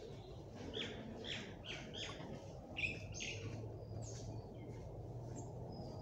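Small birds chirping: a quick run of short chirps in the first half, then a few thin whistles, over a steady low background hum.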